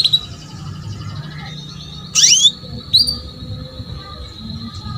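Female canary calling: sharp upward-sweeping chirps near the start, about two seconds in and about three seconds in, over a thin, steady high trill, the kind of call keepers play to get male canaries singing. A low hum runs underneath.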